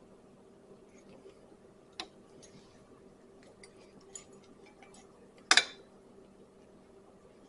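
Small clicks and clinks of hard parts being handled while a pull cord is rethreaded through the handle of an ATV recoil starter: a sharp click about two seconds in and a louder double clack about five and a half seconds in, over a faint steady hum.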